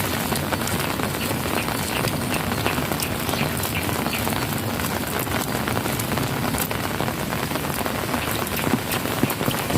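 Heavy rain falling steadily and splashing on wet ground and puddles, a dense hiss full of individual drop splashes.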